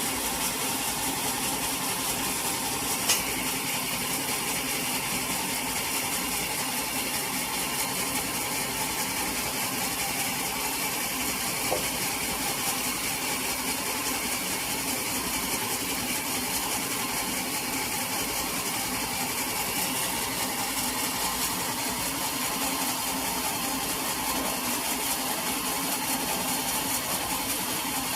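Sawmill machinery running steadily, with a sharp click about three seconds in and a fainter one near the middle.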